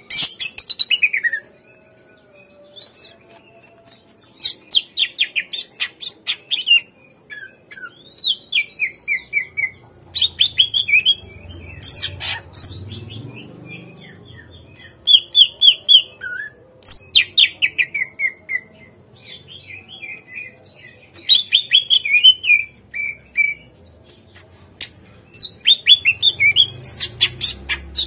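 Cucak ijo (greater green leafbird) singing in repeated bursts of quick, falling whistled notes and chirps, with short pauses between phrases.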